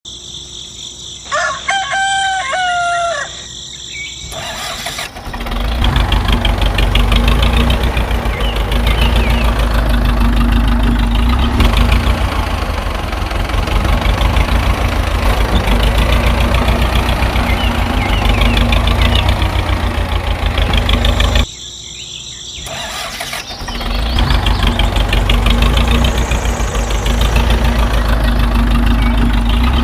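A rooster crows once near the start. Then, about five seconds in, a loud motor starts running with a fast, even pulse. It cuts out briefly about two-thirds of the way through and starts again.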